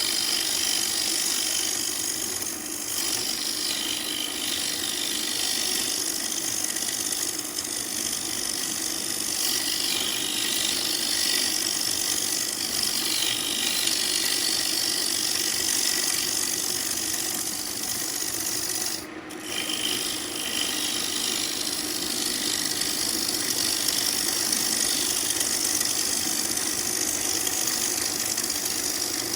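Turning tool cutting a spinning ambrosia maple bowl blank on a wood lathe: a steady scraping of the tool on the wood over the running lathe, with a short break about 19 seconds in.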